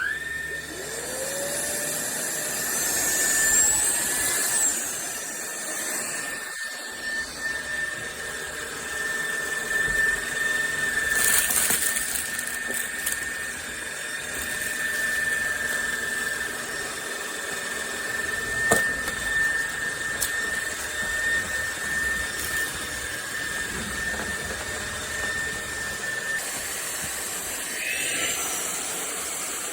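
A cordless stick vacuum cleaner is switched on and runs with a steady high-pitched motor whine. Its pitch rises as it spins up, and it changes again near the end.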